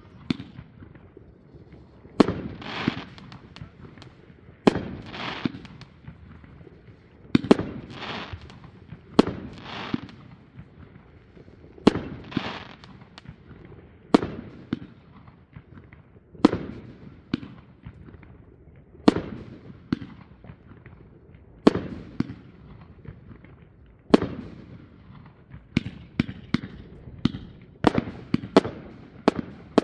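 Fireworks going off: sharp bangs about every two and a half seconds, each followed by about a second of crackling hiss. The bangs come quicker and closer together near the end.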